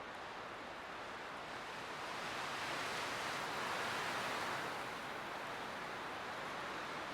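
Light wind blowing steadily as a soft rushing hiss, swelling into a gust from about two seconds in and easing off again about five seconds in.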